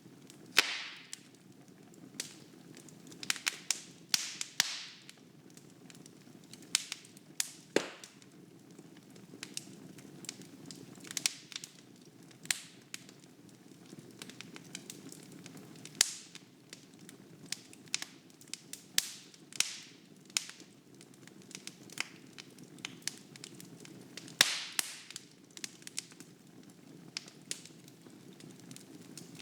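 Wood fire burning in a fireplace: irregular sharp crackles and pops from the burning logs over a low steady rush of flame.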